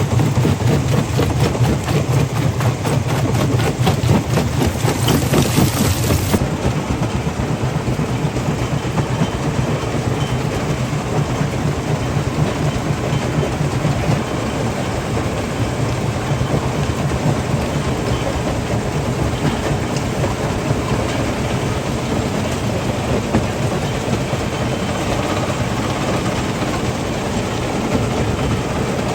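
Stone-crusher plant machinery running, with a dense, continuous rattle and knocking of rock being crushed over a heavy low rumble. About six seconds in the hissing top of the sound drops away suddenly, and the grinding clatter carries on a little quieter.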